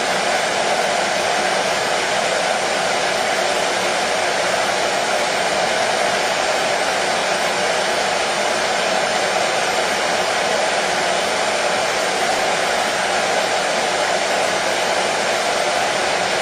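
Hair dryer running continuously at a steady pitch and level, a constant rushing whir played as soothing white noise for colicky babies.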